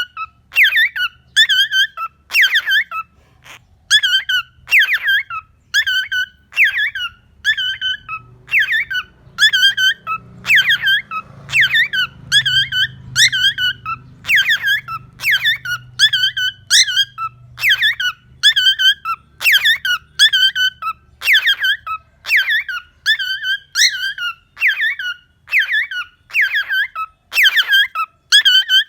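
Cockatiel calling over and over: short, loud chirps that bend in pitch, about one or two a second without a break.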